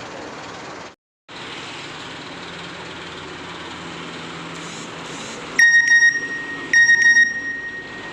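Road traffic and truck engine noise, then two loud, high-pitched horn blasts about a second apart near the end, typical of a truck sounding its horn for roadside spotters.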